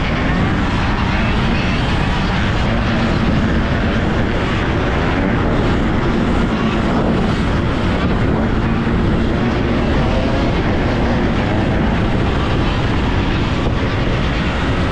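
Steady wind rush on a GoPro microphone while riding a dirt bike, with a faint motor hum beneath.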